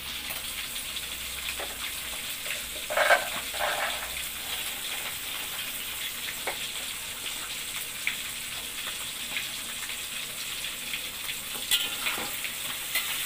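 Beef (empal) frying in hot oil in a steel wok, with a steady sizzle. Short clatters of a metal spatula against the wok come once about three seconds in and again near the end.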